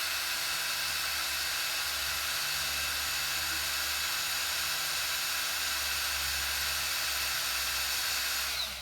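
Electric drill running at steady speed, boring through the soft-metal butterfly (throttle plate) of a lawn mower carburetor, then shutting off near the end with its pitch dropping as it spins down.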